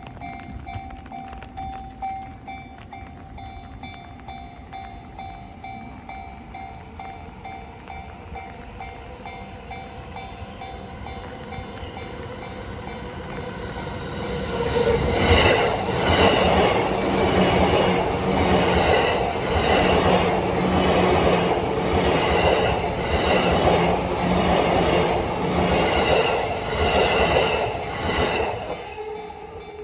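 A level-crossing warning bell rings in a steady repeating pulse. About fourteen seconds in, an E235-series electric train passes through the crossing, much louder, with its wheels clacking in a rhythm of about once a second, until it cuts off near the end.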